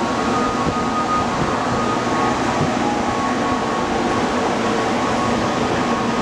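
Steady whir of parked electric trains standing at the platform, their air-conditioning and auxiliary equipment running, with a faint high whine over it.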